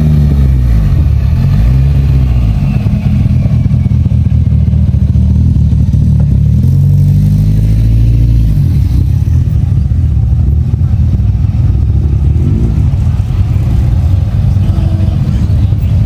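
Classic car engines driving past one after another, loud and low, revving up and easing off several times.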